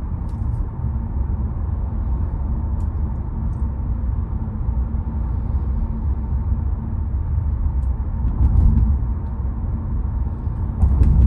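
Car driving along a road: a steady low rumble of engine and tyres, swelling slightly twice toward the end.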